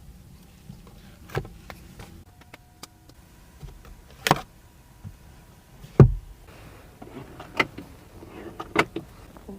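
A car's doors and fittings being worked: a handful of sharp clicks and knocks, the loudest a click about four seconds in and a knock with a low thump about six seconds in.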